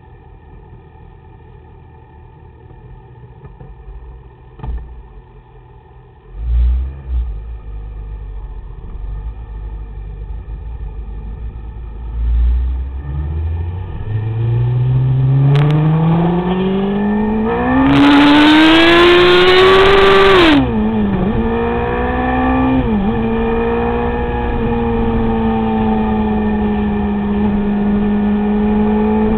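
Sport motorcycle engine pulling in one long rising rev as the bike accelerates hard, loudest near the top. The pitch then drops sharply, as on a shift or a closed throttle, and settles into a steady drone. Before that come a few seconds of faint sound with a couple of thumps.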